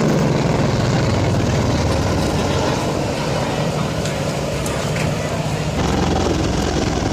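Boeing CH-47 Chinook tandem-rotor helicopter running, a loud steady drone of turbine engines and rotors.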